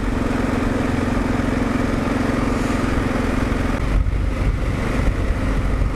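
Kawasaki KLR 650's single-cylinder engine running under way, heard over wind noise. About four seconds in, the steady engine tone drops away and a lower rumble takes over.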